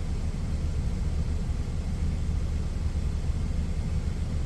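Steady low rumble of an idling truck engine, even and unbroken.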